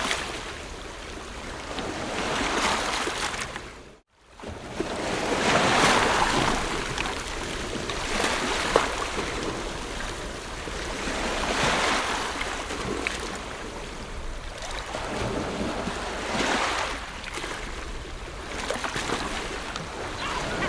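Ocean waves surging and washing on a shore, the surf swelling and easing every few seconds. The sound cuts out briefly about four seconds in, then comes back.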